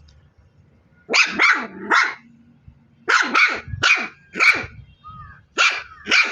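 A dog barking in short, loud barks grouped in quick runs: three, then four, then two.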